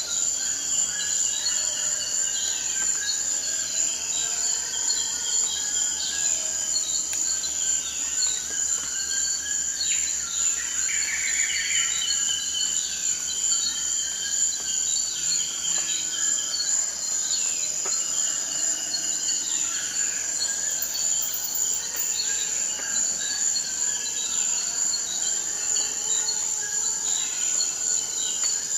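Forest ambience: a steady, high-pitched chorus of insects such as crickets, with short falling calls repeating every couple of seconds beneath it.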